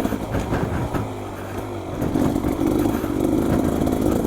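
Beta XTrainer 300 two-stroke dirt bike engine riding on the trail: the engine note drops away soon after the start, then picks back up about halfway through and holds steady.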